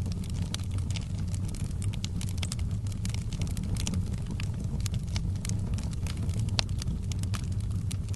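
Wood fire burning in a fireplace: a steady low rumble of the flames with frequent sharp crackles and pops of the logs.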